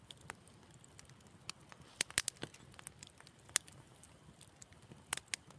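Wood fire in a fireplace crackling: sharp, irregular pops over a soft low background, with a quick cluster of pops about two seconds in and another near the end.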